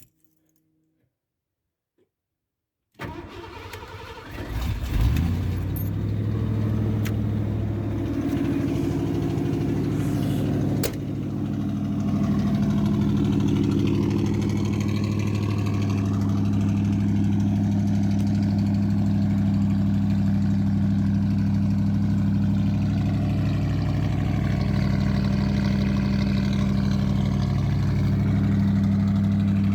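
1988 Ford F-150 pickup engine cranking and starting about three seconds in, after a short silence, then idling steadily.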